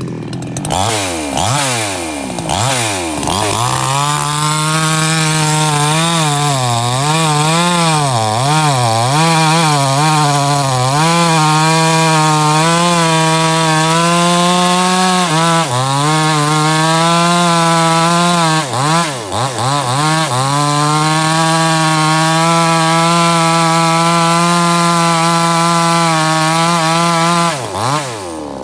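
Chainsaw just started, being revved up and down repeatedly at first, then held at high revs with two brief dips, and dropping back down near the end.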